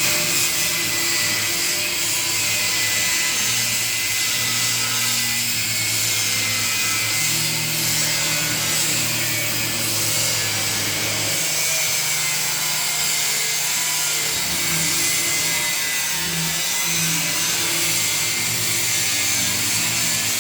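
Angle grinder with an abrasive cut-off disc cutting through 2 mm steel plate: a steady, high-pitched hiss of the disc in the metal, running without a break, over a low motor hum that shifts in pitch now and then.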